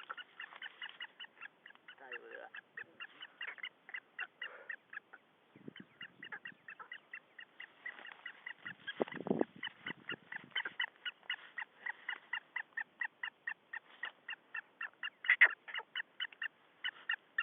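Birds calling together in a dense, unbroken chatter of short, sharp calls, several a second, with one louder call about fifteen seconds in.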